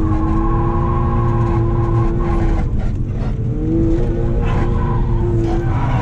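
BMW E36 328i's straight-six engine held at high revs under load, heard from inside the cabin. The revs dip briefly about three seconds in, climb back, then begin to drop near the end.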